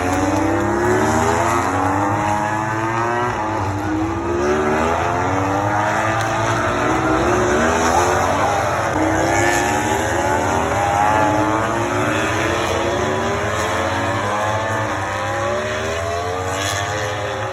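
Several racing motorcycles accelerating hard past the track, their engines rising in pitch, dropping briefly at each upshift and rising again, overlapping one after another.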